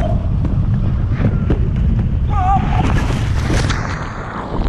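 Wind buffeting the microphone with a dense low rumble. Brief distant voices call out twice, near the start and about halfway through, with a few small knocks.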